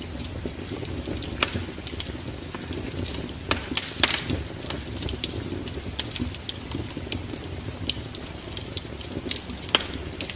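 Wood fire in a fireplace crackling, with irregular sharp pops, the loudest about three and a half and four seconds in, over a low steady rumble.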